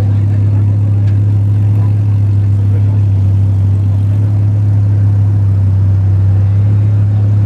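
A car engine idling steadily, a constant low drone with no revs.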